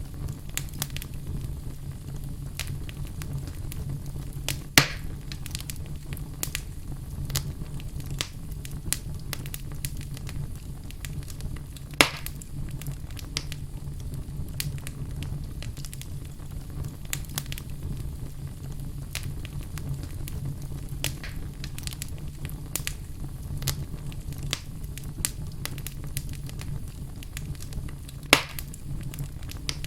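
Wood fire burning in a fireplace: steady crackling with many small pops and three louder snaps, about five, twelve and twenty-eight seconds in, over a low steady rumble.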